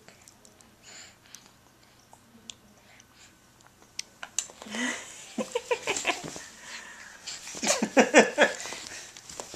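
A baby's breathy, excited squeals and grunts, in two bursts about five and eight seconds in, the second one louder.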